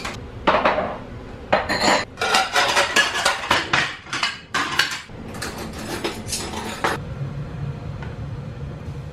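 Dishes and cutlery clattering and clinking together in a run of sharp knocks, stopping about seven seconds in and leaving a low steady hum.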